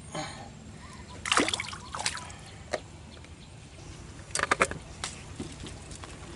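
Water splashing and sloshing in short bursts: a couple about a second and a half in, and a quick cluster of splashes just past four seconds in.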